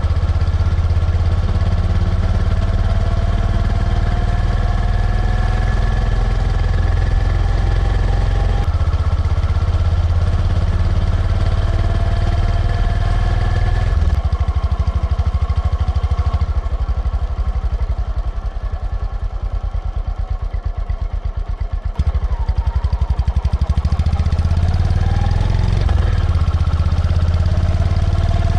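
Honda GB350C's single-cylinder engine running under way, its pitch rising several times as it pulls up through the revs. Past the middle it drops to a slower, lighter pulsing beat with the throttle closed, then picks up and rises again.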